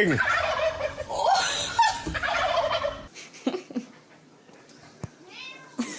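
A group of turkeys gobbling together in a loud, rattling chorus, cutting off about halfway through. A quieter stretch with a few faint sounds follows.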